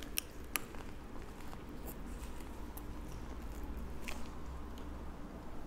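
Close-up mukbang eating: a person chewing a butter-dipped piece of seafood, with soft wet mouth sounds and a few light clicks near the start.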